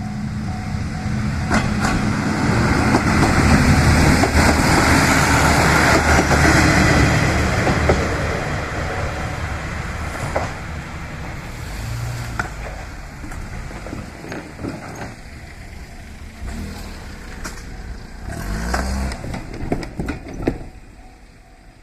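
Diesel railcar passing through a level crossing, loudest about three to seven seconds in, with wheels clicking over the rail joints, then fading away. A short louder noise comes near the end.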